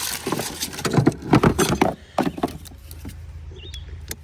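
A quick run of knocks and clicks from parts of an ATV being handled, plastic and metal rattling for about two seconds, then a few stray clicks over a steady low hum.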